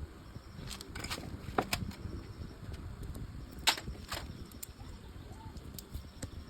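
Scattered sharp clicks and taps of tools and parts being handled during hand work on a motorbike engine, about eight in all with the loudest near the middle, over a low steady rumble.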